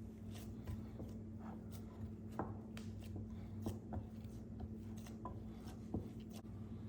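Scattered light clicks and taps at an uneven pace, a few sharper than the rest, over a steady low hum.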